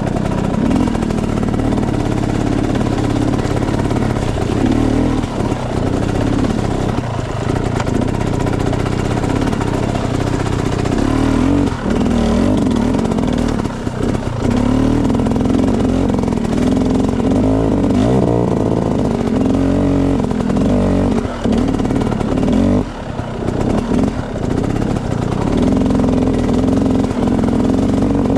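Enduro dirt bike engine running on a trail ride, its pitch rising and falling as the throttle opens and closes, with a few brief dips in between.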